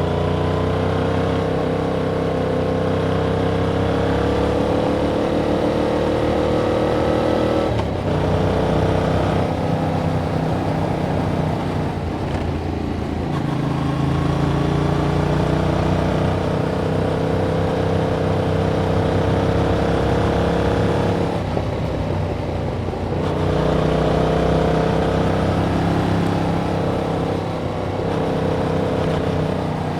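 Yamaha MT-07's parallel-twin engine through its stock exhaust, riding under load with the pitch slowly climbing. It eases off and picks up again about eight seconds in, and once more a little after twenty seconds.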